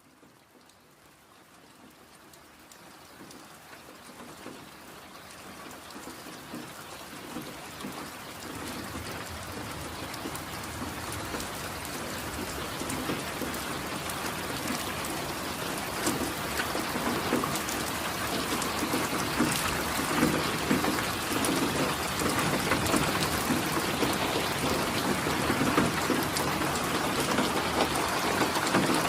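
Steady rainfall with individual drops ticking on a surface, fading in gradually and growing louder throughout.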